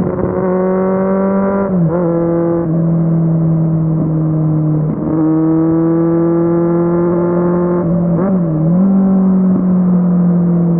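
Kawasaki Z750 inline-four engine running under way at fairly steady revs. The pitch drops and settles lower about two seconds in, and dips briefly and recovers about eight seconds in.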